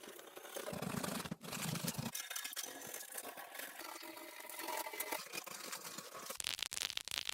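Hand tools scraping and rubbing on rusted metal scooter parts, with small rattles and clicks; the sound breaks off abruptly about a second and a half in and again near the end.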